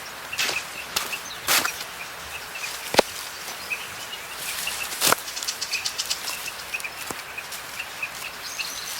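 Outdoor tropical ambience: many small birds chirping in short, repeated notes over a steady background hiss, with a few sharp clicks scattered through it.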